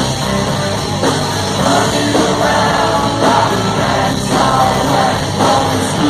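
Live rock band playing, with singing over it.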